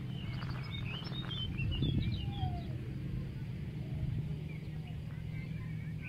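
Small birds chirping in quick, high twittering notes, mostly in the first two seconds and again near the end, over a low steady rumble.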